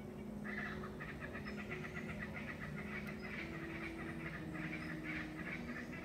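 Birds calling in a fast, continuous chattering chorus, which starts about half a second in.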